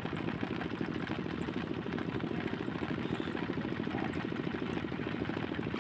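A small engine running steadily with a rapid, even pulsing beat.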